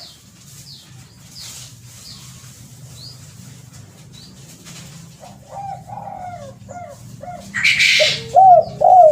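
Spotted dove (terkukur) cooing in a repeated series that starts about five seconds in and grows louder near the end, with faint high chirps and a low hum beforehand. A short loud rushing noise cuts in just before eight seconds.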